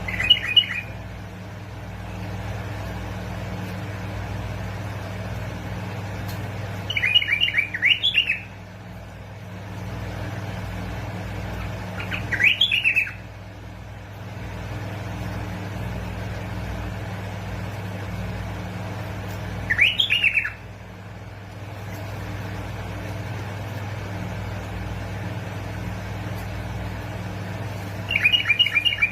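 Bulbul singing short phrases of a few quick notes, five times, several seconds apart, over a steady low hum.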